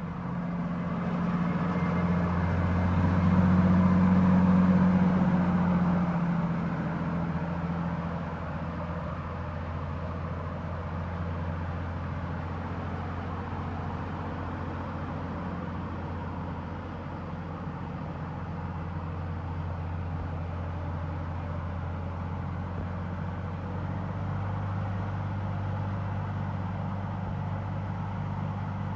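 Engine of a ploughing machine running steadily. It grows louder a few seconds in, then settles to an even hum, with a slight swell near the end.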